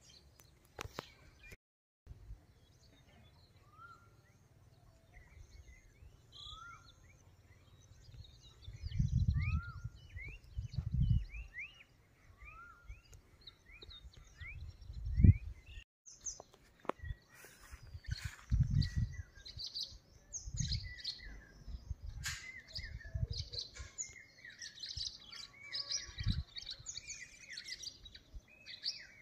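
Songbirds chirping: a short rising chirp repeated every second or so through the first half, then a dense chorus of many birds chattering from about halfway on. Several low thumps break in, the loudest about halfway through.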